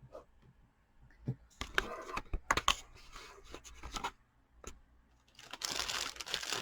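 Cardboard product box being handled and opened: scraping and tearing of packaging with sharp clicks and knocks, busiest in the middle, and a longer rush of rustling noise near the end.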